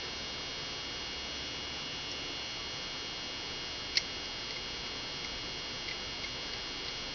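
Quiet steady room tone with a thin high-pitched electronic whine, broken by one short sharp click about four seconds in and a few fainter ticks.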